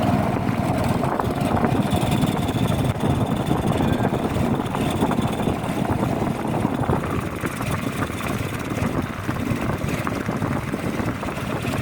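A small river boat's engine running steadily while the boat is underway.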